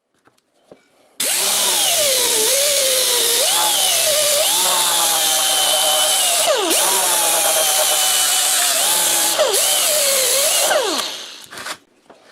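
Power tool starting abruptly about a second in and running loudly, its pitch dipping and recovering repeatedly as it works under changing load, then stopping near the end.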